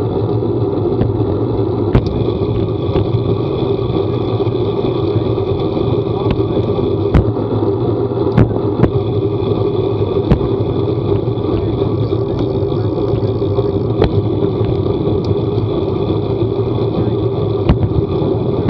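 Steady running noise of a vehicle on the move, a continuous low drone, with scattered sharp clicks or knocks every second or two.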